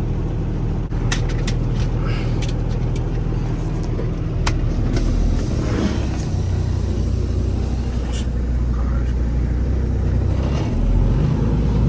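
Semi truck's diesel engine running steadily, with a handful of sharp clicks and knocks; the engine grows louder about five seconds in.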